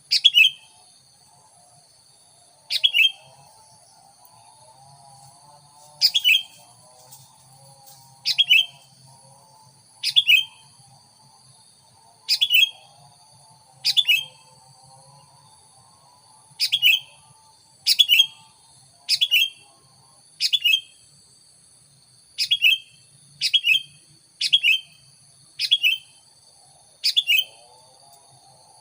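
Sooty-headed bulbul (kutilang) lure call: a short, loud, falling chirp repeated about every one to two seconds, some sixteen times. A faint steady high-pitched whine runs underneath.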